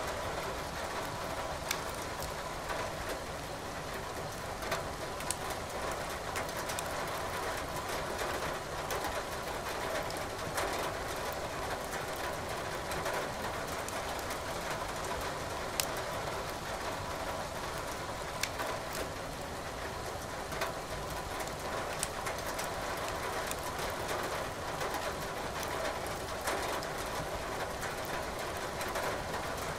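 Firewood crackling in a fireplace, with scattered sharp pops every second or two, over a steady hiss of rain.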